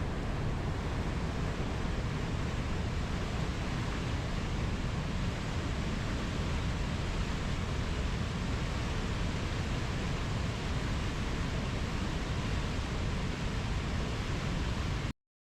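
Steady rushing noise, even and unbroken and heaviest in the low range, cutting off suddenly to silence near the end.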